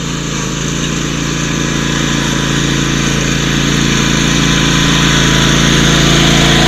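Tractor engine running steadily, getting gradually louder as the tractor drives along.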